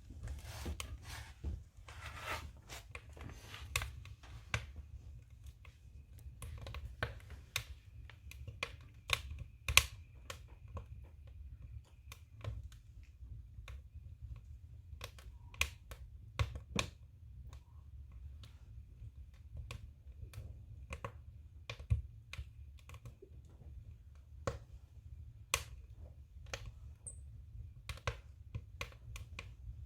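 Firewood burning in a stove, crackling and popping at irregular intervals, with the loudest pop about ten seconds in.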